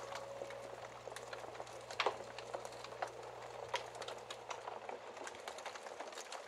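Wood fire crackling in a fireplace: a scatter of small irregular pops, with one louder pop about two seconds in.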